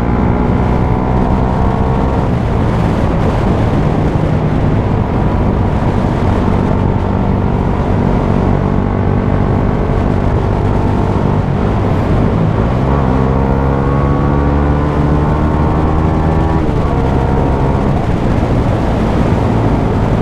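Suzuki GSX-S125's single-cylinder 125cc four-stroke engine with a Mivv GP Pro aftermarket exhaust, riding under way. The pitch climbs as it accelerates and drops with an upshift about two seconds in, then holds steady. It climbs again from about thirteen seconds and drops with another shift near seventeen seconds.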